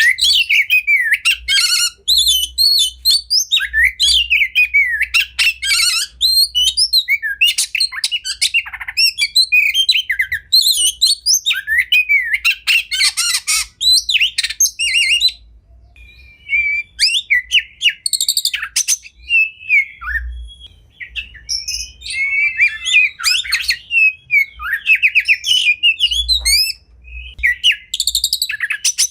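Oriental magpie-robin (kacer) singing a fast, varied song of whistled glides and rapid chattering trills, with a short pause about halfway through.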